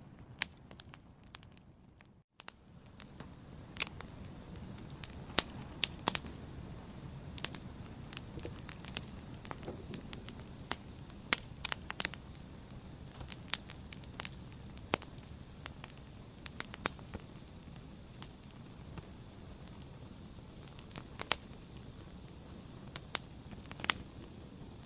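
Wood fire crackling in a fireplace: irregular sharp pops and snaps over a steady low rush of flame. The sound cuts out for a moment about two seconds in, then resumes.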